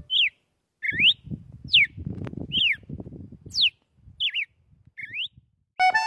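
A bird calling repeatedly: about seven short whistled notes, each swooping down or up in pitch, roughly one a second, over a low scratchy rustle.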